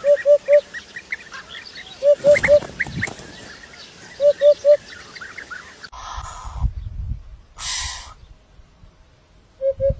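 Birds calling: a short three-note call repeats about every two seconds over many high chirps. About six seconds in the chirping stops, and a low rumble with a couple of brief rustling bursts takes over until the three-note call comes back near the end.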